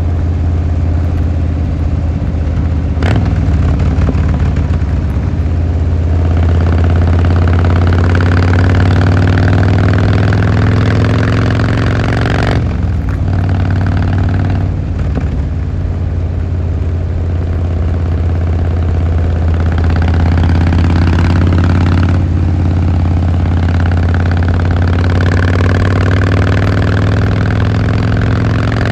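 Harley-Davidson Fat Boy Lo's V-twin engine running under way, its note climbing in pitch several times as it accelerates, with a few short breaks where the throttle closes. A single sharp click about three seconds in.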